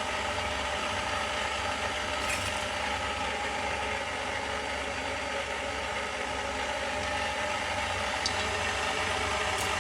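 KitchenAid stand mixer running steadily at speed, its motor and gears whirring as it beats cookie dough.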